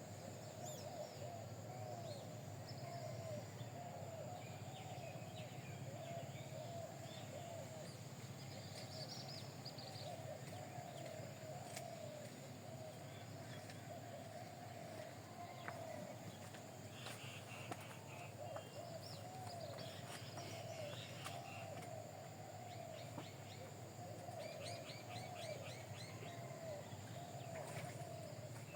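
Faint bird calls: a continuous wavering, warbling chatter with scattered higher chirps over a steady low hum.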